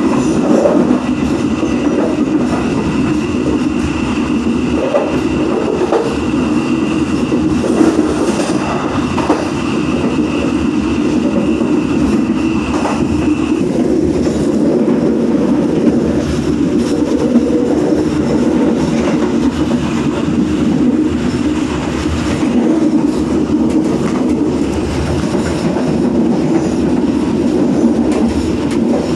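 Ballast freight train running along the track, heard riding on the wagons: a steady rumble of wheels on rail with scattered clickety-clack. A thin high whine runs through the first half and stops about halfway through.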